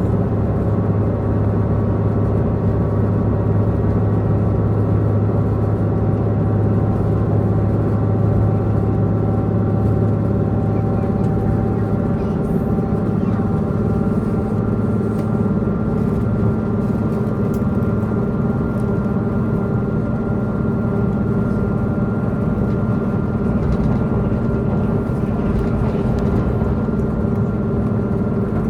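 Diesel multiple-unit train heard from inside the passenger car: the underfloor diesel engine drones steadily over the running noise of wheels on rail. About twelve seconds in, the engine's note shifts to a higher pitch.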